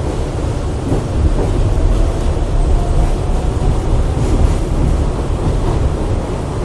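New York City 7-line subway train in motion, heard from on board: a loud, steady low rumble of wheels and running gear on the track, with a faint whine in the middle.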